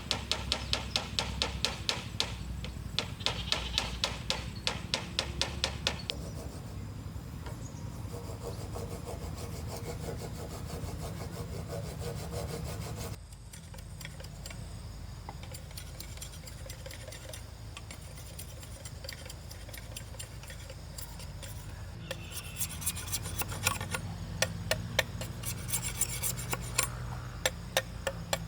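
A hand tool working bamboo in quick, even strokes, about four a second. The strokes are sharper near the start and again near the end, with a quieter, less regular stretch in the middle.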